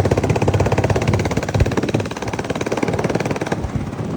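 Engine of a motor vehicle running steadily under way, with a rapid, even pulsing beat.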